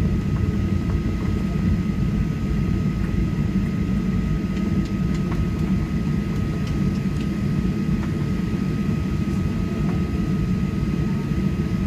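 Steady cabin noise inside a Boeing 737-800 holding in the takeoff queue: a low, even rumble from the idling jet engines and cabin air, with a faint steady whine over it.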